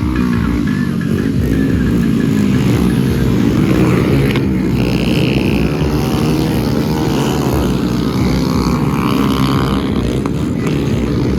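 Small 100–110 cc motorcycle engines racing, their pitch rising and falling as the riders rev up and back off.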